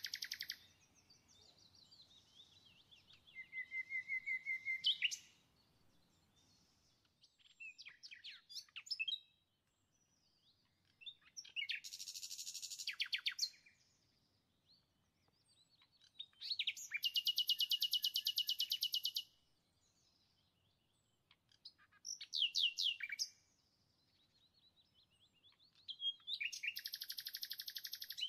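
A songbird singing in repeated phrases of rapid trills and chirping notes, each a second or two long, with short pauses between.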